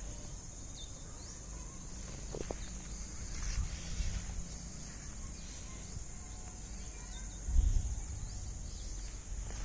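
Steady high-pitched insect chirring, like crickets, over outdoor background noise, with a brief low rumble about three-quarters of the way through.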